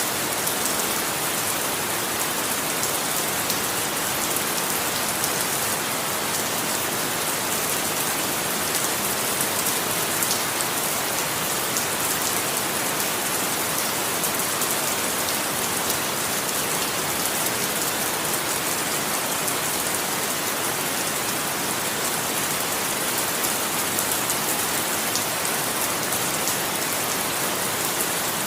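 Steady rain falling on a surface, a continuous even hiss of drops with fine patter and no thunder.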